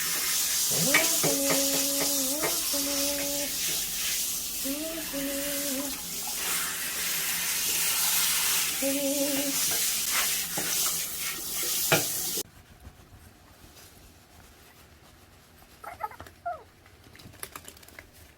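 Shower water spraying steadily onto a Bichon puppy during its bath, cutting off suddenly about 12 seconds in. Over the water come a few drawn-out whining cries from the puppy, then a couple of faint whimpers near the end.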